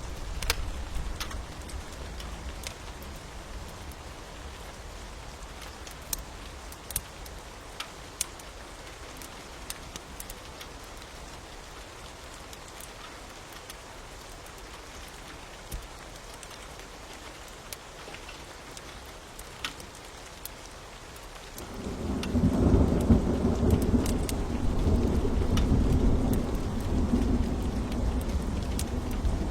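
Steady rain with scattered sharp crackles from a wood fire. About two-thirds of the way in, a long, deep rumble of thunder builds and goes on, becoming the loudest sound.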